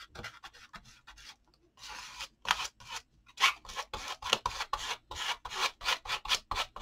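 Acrylic paint being scraped across a paper journal page: a run of quick, scratchy rubbing strokes, coming faster and more evenly from about halfway through.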